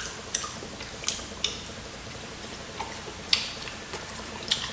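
Chewing crispy fried chicken close to the microphone: a handful of sharp, irregular crunching clicks about a second apart.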